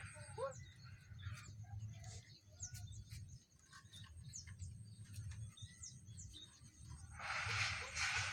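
Small birds chirping in short separate calls over a faint low rumble. About seven seconds in, a loud rattling clatter starts: the zinc-sheet bird scarer being shaken by its pull rope.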